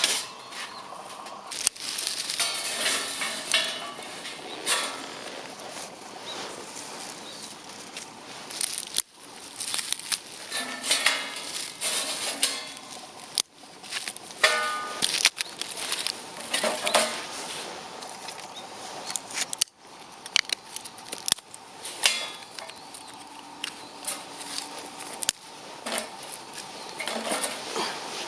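Camp gear being handled: metal pots and utensils clinking and clattering among rustling, in short irregular clicks and knocks, broken by several abrupt cuts.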